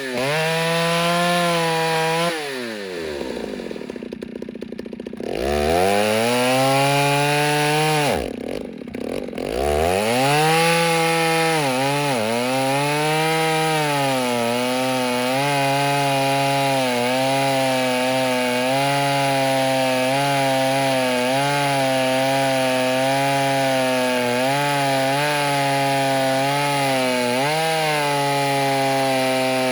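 Ported Stihl 08S single-cylinder two-stroke chainsaw with a stock muffler, revving and cutting wood. It drops to idle about two seconds in and dips again about eight seconds in, then runs long at full throttle, its pitch sagging now and then under load.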